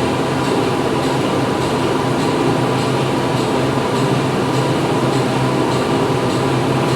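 Factory machinery running steadily: a dense, constant mechanical din with a low hum, and a faint high ticking repeating at an even rhythm.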